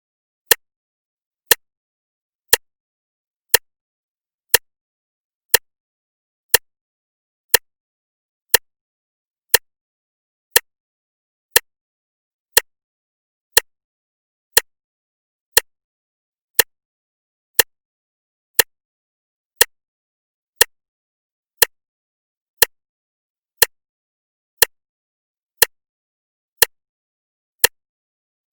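Clock ticking once a second: short, sharp, even clicks with silence between them.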